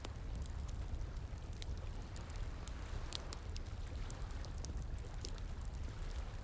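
Campfire crackling, with irregular sharp pops and snaps, over the steady rush of a flowing stream with a low rumble underneath.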